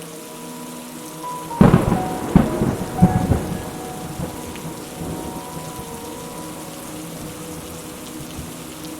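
Steady rain falling, with a loud clap of thunder about one and a half seconds in that rumbles in several peaks for about two seconds before fading back into the rain.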